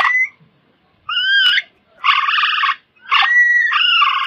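Coypu (nutria) calling: a series of harsh, buzzy cries, some with gliding whistle-like tones, about four calls with the last the longest.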